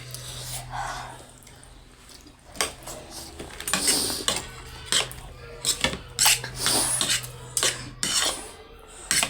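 Metal cutlery clinking and scraping against bowls during a meal of instant noodles, in a dozen or so irregular sharp clicks.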